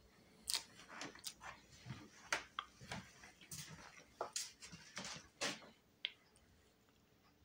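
Close-up chewing of a mouthful of cupcake: a run of short wet mouth smacks and clicks that stops about six seconds in.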